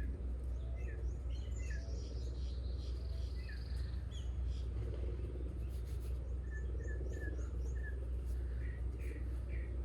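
Several wild birds singing, a mix of short chirps and phrases of quickly repeated notes, over a steady low rumble.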